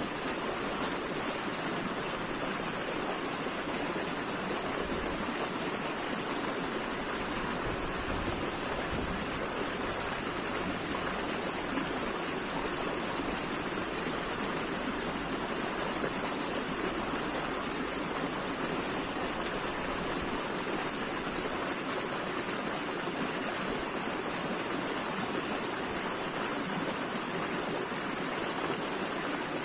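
Steady rushing of flowing water, an even hiss with no breaks or splashes.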